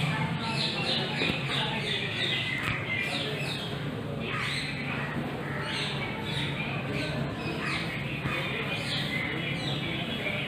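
Birds chirping and squawking: a dense run of short, falling calls, over a steady low hum.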